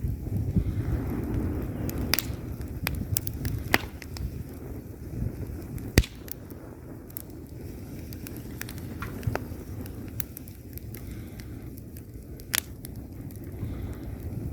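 Log fire burning in a fireplace: a steady low rumble of flames with irregular crackles and pops of burning wood, and one sharp, loud pop about six seconds in.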